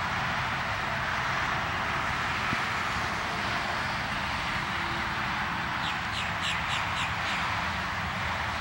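A bird calling a quick series of about six short, high notes about six seconds in, over a steady background hiss.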